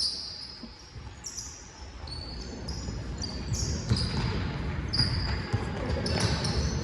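A basketball being dribbled on a gym floor during play, with short, high sneaker squeaks on the hardwood that come thicker from about four seconds in.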